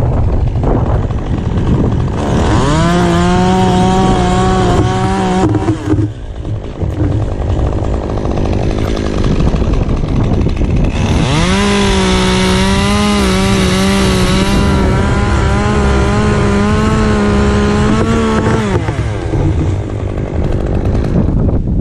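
Chainsaw revved up and held at high speed twice, about three seconds from a couple of seconds in and then about seven seconds from around the middle, and running at low speed in between: the saw cutting through a tree limb.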